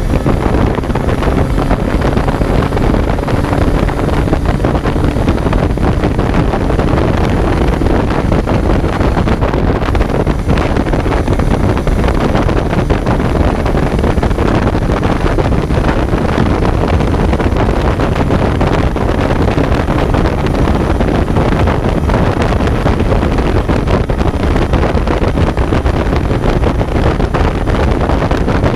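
Kawasaki Z900's inline-four engine running on the move, recorded on board, largely buried under heavy wind buffeting on the microphone.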